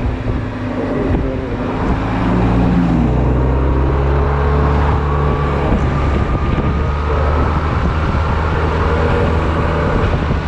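Honda Silver Wing maxi-scooter engine running on the move, with road and wind noise. Its note dips about two to three seconds in, then climbs slowly through the second half as it speeds up.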